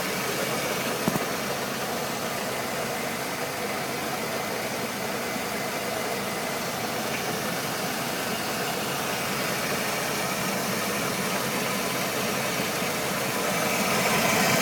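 1969 Land Rover Series 2 engine running steadily at idle on its first start after 11 years standing, with one short click about a second in and a little louder near the end.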